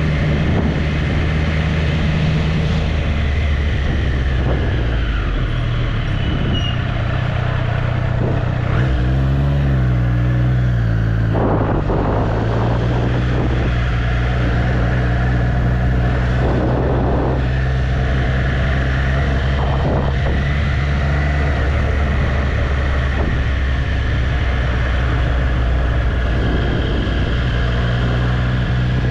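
Triumph Street Triple's inline three-cylinder engine running under way. Its pitch drops about four seconds in, rises and falls quickly a couple of times around ten seconds in, then holds steady.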